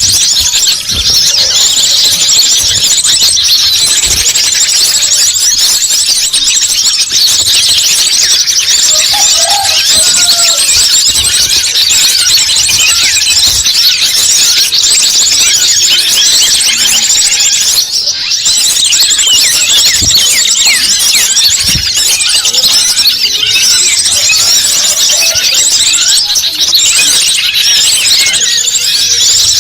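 Bird-lure (pikat) recording: a loud, dense chorus of many small birds chirping without a break in rapid, high-pitched notes.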